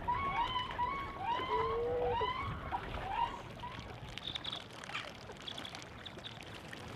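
Waterbirds calling across the marsh: many short, curved whistled calls overlapping, thick for the first three seconds and thinning out after that.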